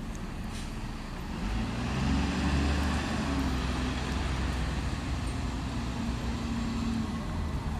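A heavy vehicle's engine hums over street traffic noise, growing louder about one and a half seconds in as it draws close, then running steadily.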